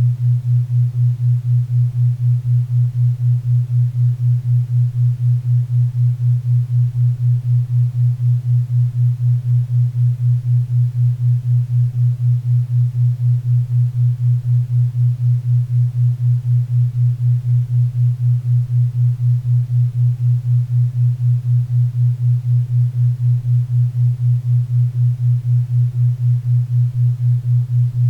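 A 4 Hz theta-wave beat: a low, steady hum-like tone pulsing evenly about four times a second, over a faint bed of pink and brown noise.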